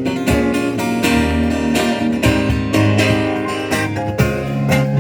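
Acoustic guitar strumming in a steady rhythm over sustained low bass notes: the instrumental intro of a song, before the singing starts.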